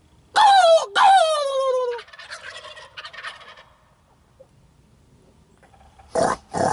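Two loud calls falling in pitch, a made animal noise meant to set off the jakes, then young wild turkey jakes answering with a rapid rattling gobble. Two more short, loud bursts come near the end.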